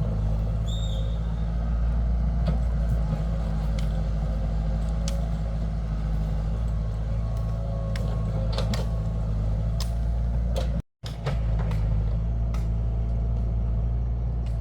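Heavy machine engine running steadily, with scattered clanks and knocks over it; the sound drops out for a moment about eleven seconds in.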